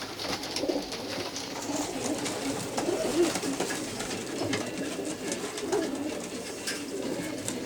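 A loft full of racing pigeons cooing and burbling steadily, with scattered light taps and clicks among them.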